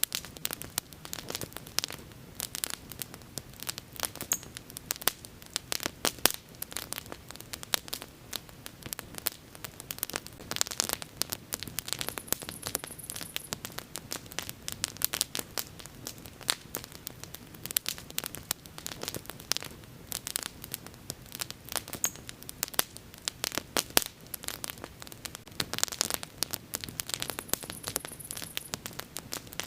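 Wood bonfire burning, with dense, irregular crackling and popping over a low, steady rush of flame.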